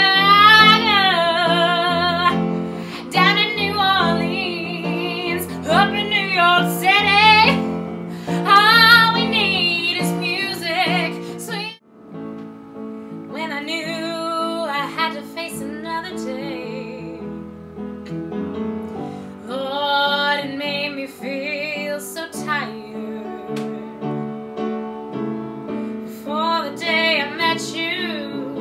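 Music: a woman singing with vibrato over keyboard accompaniment, with a brief break about twelve seconds in before the music carries on more softly.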